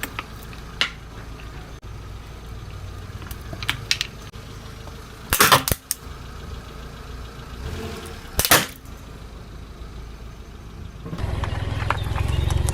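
Objects cracking and crunching as a car tyre rolls over them: a few small clicks, then two loud crunching cracks about three seconds apart, over the car's engine running low. The engine grows louder near the end.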